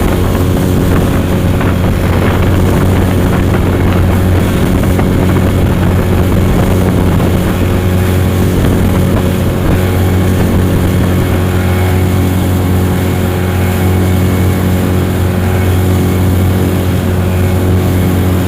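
Outboard motor of an inflatable boat running at a steady speed, a loud, even low hum whose pitch does not change.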